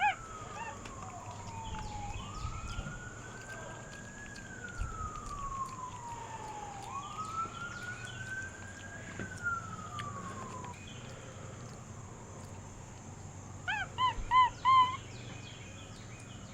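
Siren wailing, slowly rising and falling in pitch over several seconds at a time, then stopping about eleven seconds in. A few seconds later come four short, loud, high chirps in quick succession.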